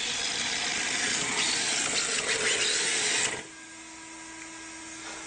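RC drift car's small electric motor whirring loudly. About three seconds in it drops to a quieter, steady hum.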